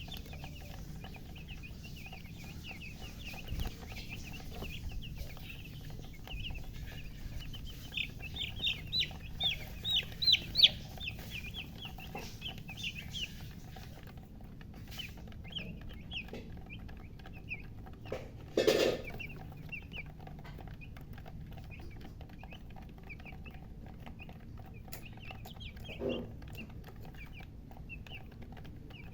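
Newly hatched chicken chicks peeping: many short, high chirps, with a run of louder, quicker ones about eight to eleven seconds in. A brief, louder, lower sound breaks in once about two-thirds of the way through.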